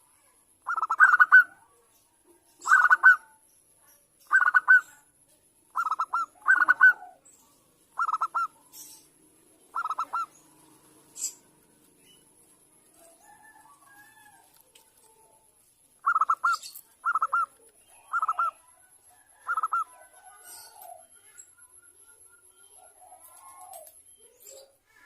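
Zebra dove (perkutut, Bangkok type) cooing its repeated short, trilled song phrases, about one every second or two. A run of seven phrases is followed by a pause of about six seconds, then four more. Fainter soft calls sit in the gaps.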